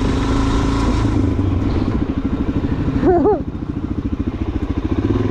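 Suzuki DR-Z400SM single-cylinder four-stroke engine running at low revs, each firing pulse distinct, easing off a little past halfway as the bike picks through mud. A short shouted exclamation about three seconds in.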